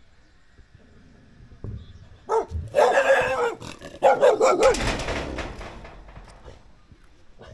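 A dog barking and growling at a stranger in two loud bouts, about two and four seconds in, the second trailing off.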